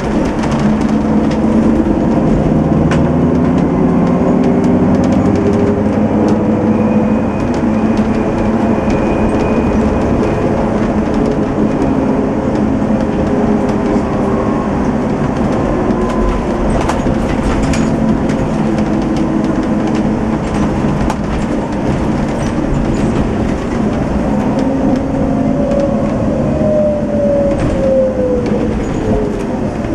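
Setra S 431 DT-L double-decker bus under way: its engine runs steadily, with road noise and scattered clicks and knocks from the body. Near the end a tone falls steadily in pitch.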